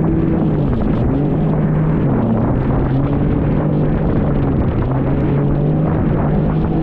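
Jet ski engine running under throttle, its pitch dipping briefly about a second in and again near two seconds, over a constant rushing noise.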